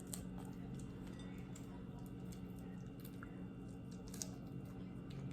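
Faint chewing and mouth clicks from a person eating, a few soft clicks over a steady low hum.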